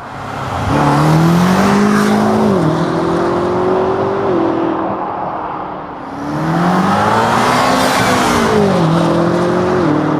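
BMW M5 Competition's twin-turbo V8 accelerating hard through the gears in two pulls. Each time the pitch climbs and then drops in steps at the upshifts; the first pull has shifts about two and a half and four and a half seconds in, the second near the end.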